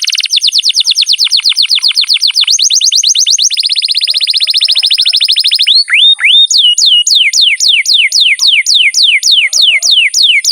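Domestic canary singing in repeated phrases: a run of rapid falling notes, then a fast even trill about halfway through, then slower, sharply falling whistled notes about four a second. A steady high thin tone runs underneath.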